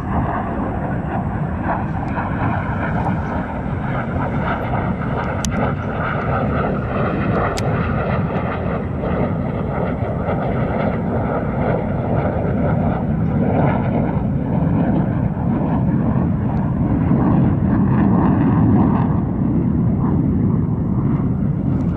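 F-16 fighter jet flying overhead, its single jet engine a loud, continuous rumble with slowly shifting tones, swelling to its loudest about eighteen seconds in.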